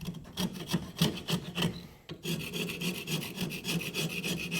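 Hand scrubbing or rasping strokes, a brush or file worked back and forth against the rusted metal of a water pump part to clean it. The strokes are uneven at first, pause briefly about two seconds in, then settle into a quick even rhythm of about seven strokes a second.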